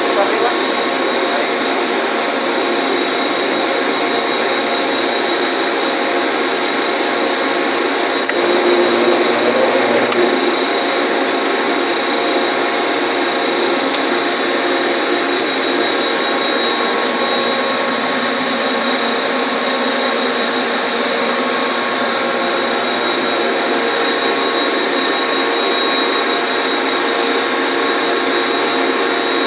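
An electric motor running steadily with a rushing, airy sound and a fixed high whine. It grows a little louder for a couple of seconds about eight seconds in.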